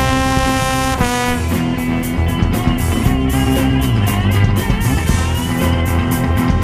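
Live vaudeville-style band music: a long held note ends about a second in, then a rhythmic tune with guitar and drum beats.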